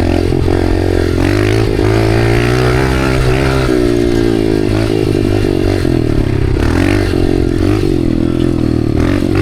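Dirt bike engine running under way, its pitch rising and falling over and over as the throttle is worked.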